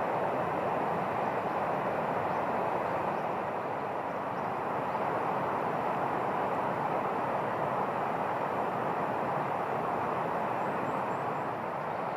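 A steady rushing noise, even and unbroken, with a few faint high chirps near the end.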